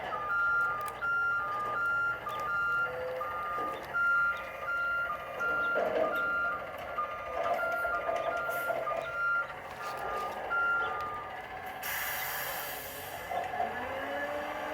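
Reversing alarm beeping in two alternating tones, about two beeps a second, stopping about eleven seconds in. A short hiss follows about a second later.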